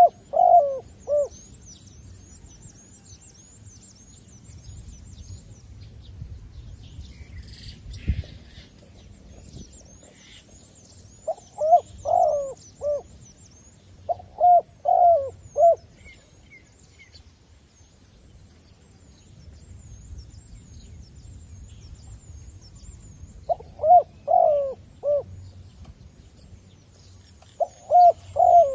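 Zebra dove decoy cooing in short phrases of quick, staccato notes, each phrase a burst of several coos. The phrases repeat at intervals, five times, with a caged decoy calling to draw in wild doves. Faint high chirping carries on underneath.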